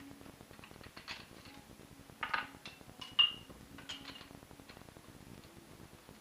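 Kitchen handling noises: scattered light clicks and knocks of dishes and utensils, with a sharper clink that rings briefly about three seconds in.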